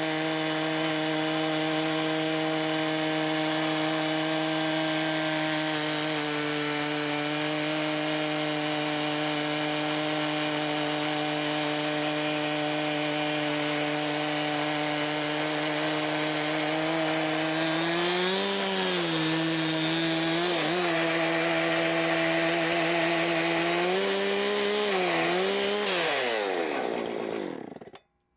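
Sawmill engine running steadily while the mill saws through a log. Its pitch sags briefly under load a few times in the second half, then falls away as the engine winds down near the end.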